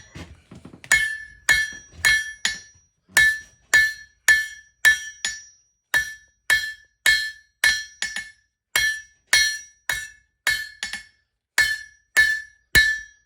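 Hand hammer striking hot steel bar on an anvil, about two blows a second with the anvil ringing clearly after each, now and then a quick lighter blow following: forging the leaf blank.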